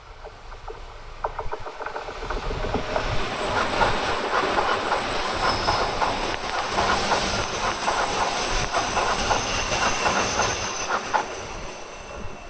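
Yamagata Shinkansen E3 series train passing: wheels clatter over the rail joints in a rapid run of clicks, with a thin high tone above. It builds over about two seconds, holds, then fades near the end.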